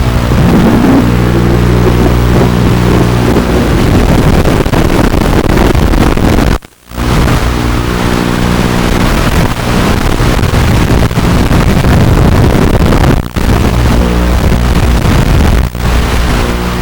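Armattan Morphite 180 FPV racing quadcopter in flight, its four brushless motors and props heard from the onboard camera under heavy wind rush on the microphone. The sound cuts out suddenly for a moment about seven seconds in, and briefly twice near the end.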